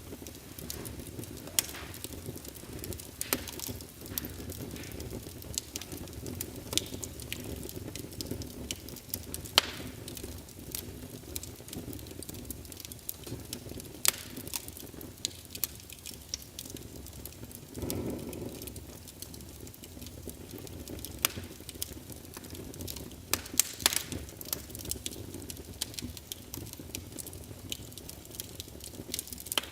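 Wood fire crackling in a fireplace: irregular sharp pops and snaps over a low steady rumble of the flames, with a short louder rush about 18 seconds in.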